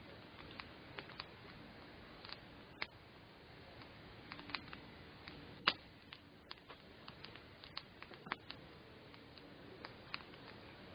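Wood campfire crackling: irregular sharp pops, a few a second, with one louder pop about halfway through.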